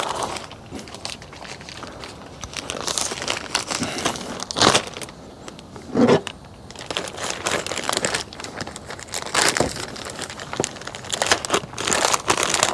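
Plastic poultry shrink bag crinkling and rustling as a plucked rooster carcass is handled and worked into it, with a few louder crackles.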